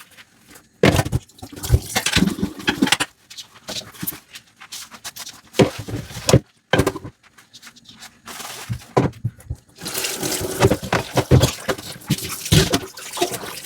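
Dishes being washed by hand in a sink: water running and splashing, a sponge scrubbing, and the odd knock of dishware, in irregular bursts with short pauses.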